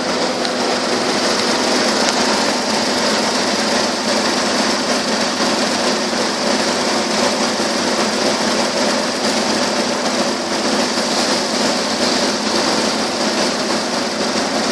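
2008 Ford Taurus X's 3.5-litre V6 engine idling steadily, with no revving.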